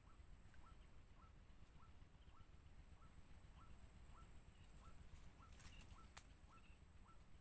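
Faint bird call: a short rising note repeated about twice a second, over a steady high-pitched whine, with a single sharp click about six seconds in.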